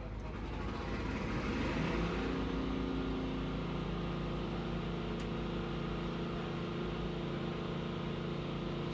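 A steady mechanical hum that rises in pitch and grows louder over the first two seconds, then holds steady.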